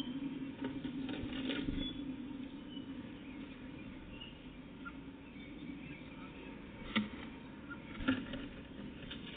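Quiet outdoor ambience: a steady low hum, a few faint short high chirps, and two sharp taps about seven and eight seconds in.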